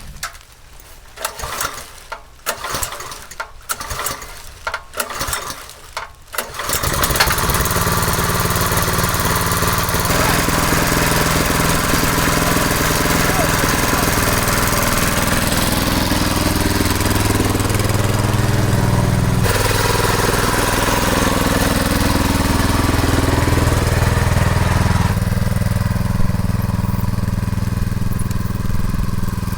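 Irregular knocks and clatter, then about seven seconds in a motoblock's small engine starts and runs steadily, its pitch dipping and rising a few times in the middle.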